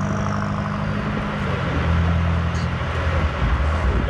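BMW M8 Competition's twin-turbo V8 running at low revs while driving, its note dropping in a step about halfway through.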